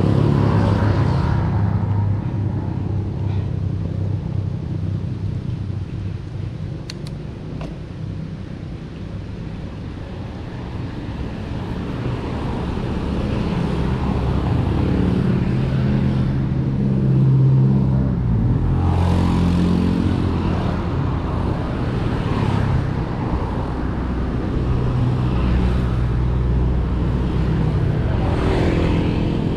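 Road traffic: a steady low rumble of motor vehicle engines, with several cars or motorcycles passing by in the second half.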